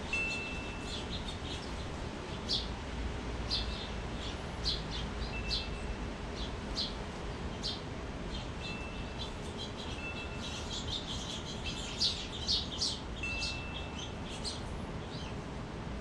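Small birds chirping in many quick short calls, busiest around the middle and near the end, with wind chimes ringing a clear high note now and then, about half a dozen times. A steady low background noise runs underneath.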